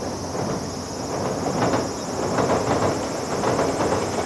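115 series electric train running across a steel girder bridge: a rumble that grows louder about a second and a half in, with repeated clacks of the wheels. Insects chirp steadily and high-pitched behind it.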